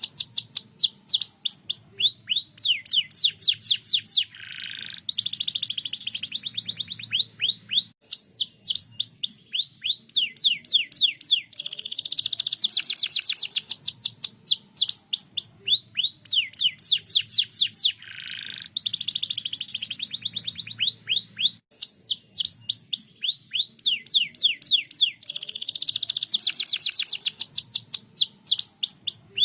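Domestic canary singing a long, continuous song of fast trills, each made of rapidly repeated down-slurred notes, with brief changes to a lower whistled phrase twice along the way. This is the non-stop 'gacor' singing used to lure other canaries into song.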